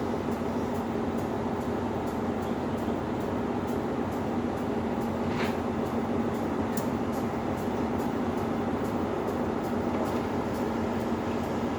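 Diesel train running steadily with a constant low hum and faint regular ticking two or three times a second, plus one brief higher sound about halfway through.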